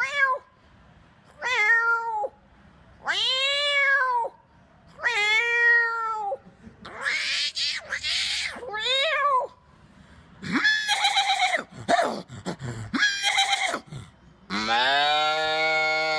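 A man imitating a cat's meows with his voice: a string of separate rising-and-falling meows, each about a second long. A longer held call starts near the end.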